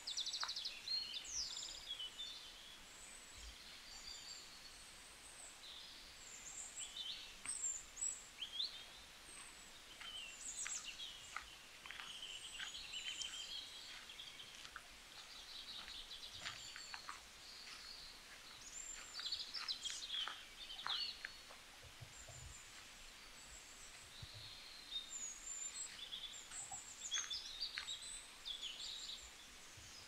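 Songbirds singing and calling, several at once, in a busy run of short high chirps and trills.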